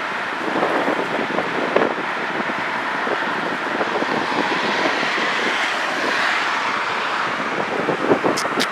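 Four-engine Airbus A380 jet engines at takeoff thrust: a steady, rushing noise with a crackle through it, mixed with wind buffeting the microphone.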